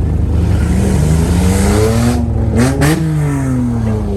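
A car passing close by, its engine and tyre noise swelling and then fading away, over a steady low engine rumble.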